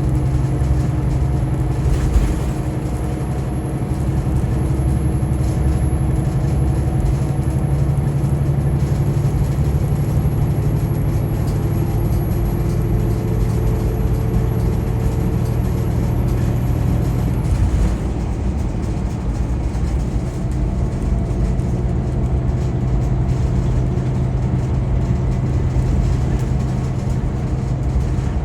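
Scania K410EB6 coach's 13-litre straight-six diesel running steadily at cruise with continuous road and tyre noise, with a single knock about two seconds in. A faint high-pitched whine stops about two-thirds of the way through.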